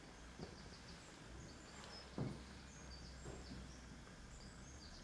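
Faint birdsong: scattered short, high chirps over low background noise, with a few soft thumps, the loudest about two seconds in.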